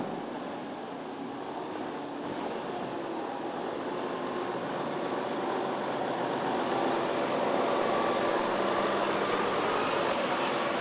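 A vehicle engine running, growing gradually louder over several seconds.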